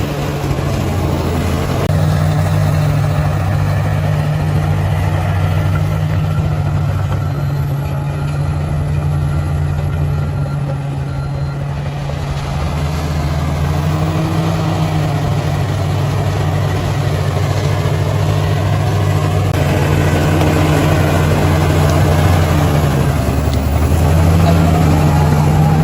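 Bulldozer's diesel engine running steadily, its pitch and loudness rising a little near the end.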